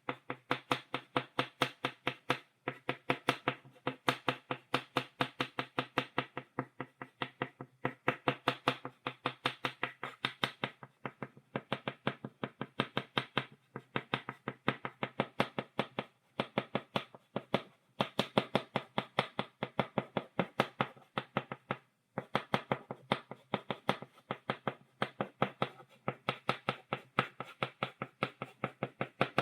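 Chalk tapped against a blackboard in quick, even taps of dot-stippling, about five a second, with a few short breaks.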